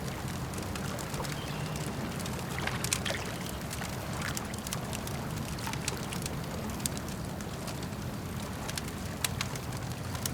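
Campfire crackling with scattered sharp pops and snaps, a small cluster of them about three seconds in, over a steady low wash of lake water.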